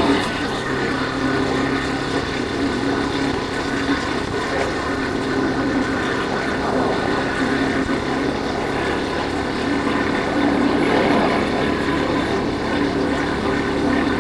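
Yamaha Factor 150's single-cylinder four-stroke engine running steadily on the move, with wind rushing over the microphone.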